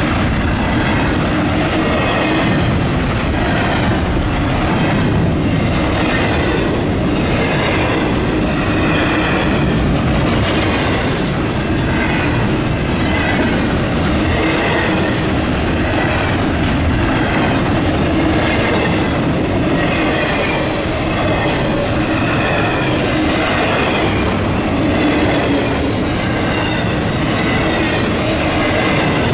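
A train rolling past at close range, steel wheels running over the rails with a steady, continuous clatter.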